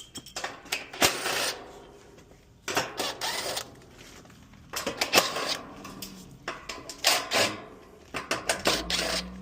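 Bouts of scraping and rattling with sharp clicks, five of them, each about half a second to a second long: work on an outdoor AC condenser unit clogged with dog hair.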